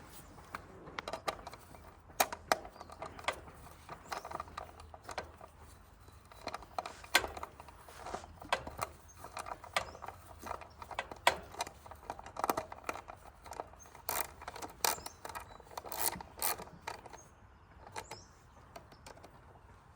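Irregular clicks, taps and knocks of hand tools and metal parts being handled, with a ratchet-like clicking at times.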